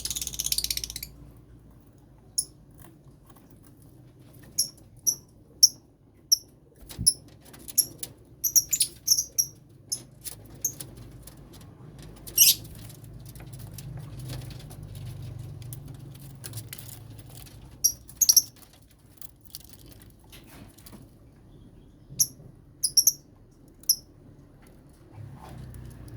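Lovebirds in a colony cage giving short, shrill, high-pitched chirps at irregular intervals, some in quick pairs or little clusters. A short rustling burst at the very start.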